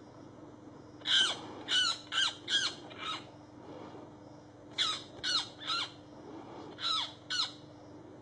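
Harsh bird squawks from a small songbird-sized bird being held down by a hawk. The short calls each drop in pitch and come in clusters: about five in quick succession, then three, then two, with pauses between.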